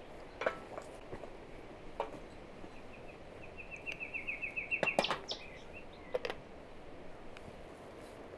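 A small bird sings a quick trill of repeated high chirps that speeds up, from about three to four and a half seconds in. A few sharp clinks and knocks come over the outdoor ambience, the loudest about five seconds in.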